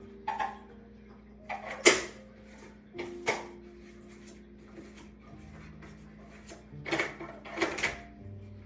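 A few short knocks and clatters of hard objects being handled, in clusters, the loudest about two seconds in, some leaving a brief ring.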